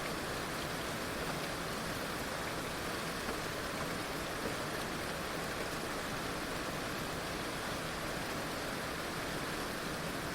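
Heavy rain falling steadily, an even hiss of rain without distinct drops or pauses.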